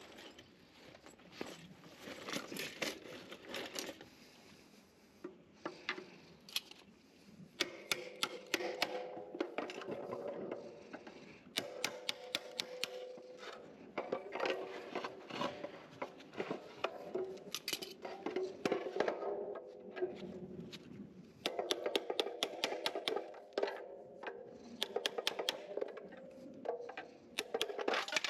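Hand tools and small hard parts being handled and worked: irregular runs of clicks, ticks and scraping, some with a brief metallic ring.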